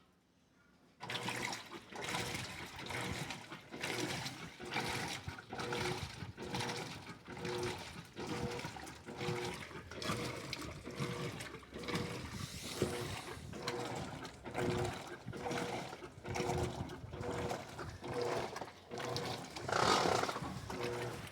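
Electrolux LED14 top-loading washing machine agitating its load in the rinse: water sloshing and churning as the agitator swings back and forth in a steady rhythm, starting about a second in after a still pause.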